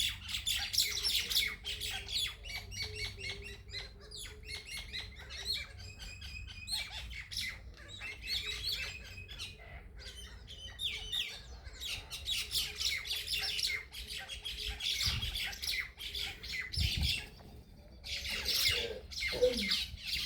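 Birds chirping and squawking in rapid, overlapping calls, as when birds squabble and fight. The calls thin out briefly twice, and a loud burst of harsh squawks comes near the end.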